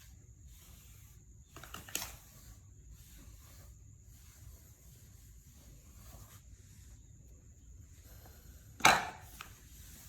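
A few sudden knocks over faint steady background noise: a small one about two seconds in and a sharper, louder one near the end, followed by a lighter tap.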